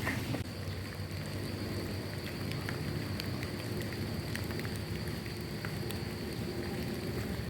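Steady rain falling, with scattered individual drops ticking close by, and a faint steady high whine behind it.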